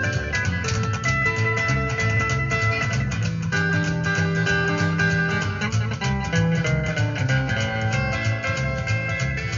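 Band music without singing: guitar notes over bass guitar and a drum kit keeping a steady beat.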